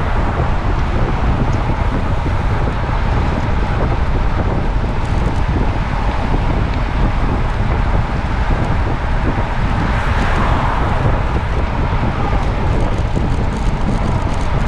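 Steady wind noise on a moving microphone, mixed with road and traffic rumble.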